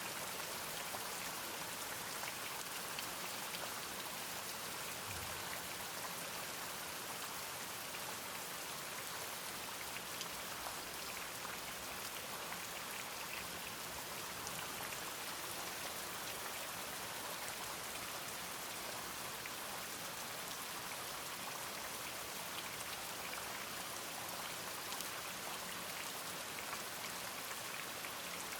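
Steady rain, many small drops ticking in a dense, even hiss.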